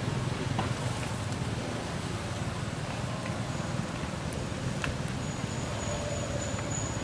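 Steady rain falling, with a low rumble underneath and a few faint scattered ticks like drips. A faint thin high whistle comes in near the end.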